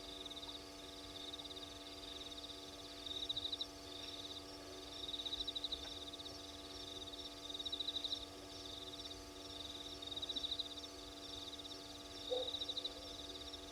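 A cricket's high-pitched pulsed trill, repeated in bursts every second or two, over a steady low hum. A short, lower call sounds once near the end.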